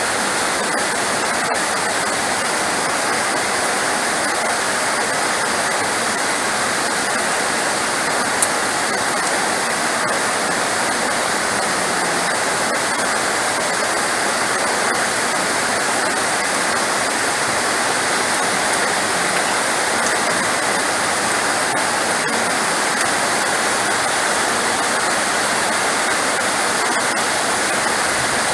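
Heavy rain falling in a steady, even hiss, with one brief sharp click about 8 seconds in.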